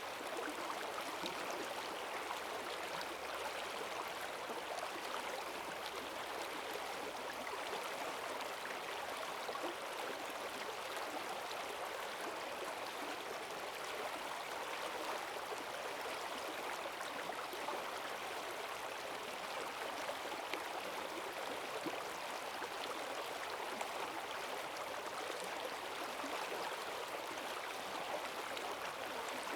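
Rain-swollen forest stream rushing over stones, a steady churning of fast water with no let-up.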